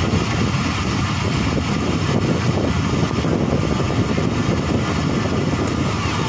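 Steady rumble and rush of a moving Pakistan Railways express passenger train, its wheels running on the rails, heard from an open coach window.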